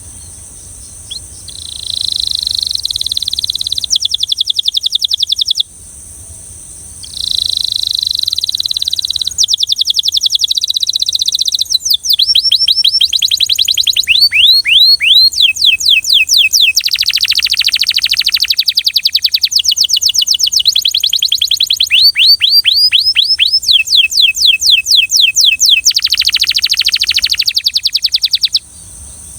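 Belgian canary singing in fast rolling trills of rapidly repeated notes. Two shorter phrases with a brief pause between them give way to a long unbroken run of trills that stops shortly before the end.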